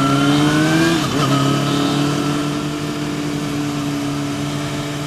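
Motorcycle engine under way, rising in pitch under throttle for about a second, then dropping back and holding a steady lower note, with wind rush on the microphone.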